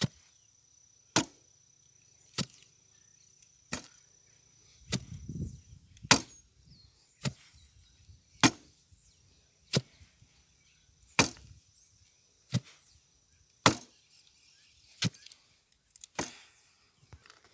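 Regular strikes of a hand digging tool into hard ground, about one blow every second and a quarter, digging a hole to bury a dead animal.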